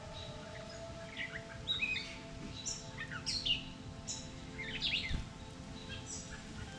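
Wild birds chirping: clusters of short, quick high calls and sweeping notes every second or so. Underneath is a steady bed of held tones.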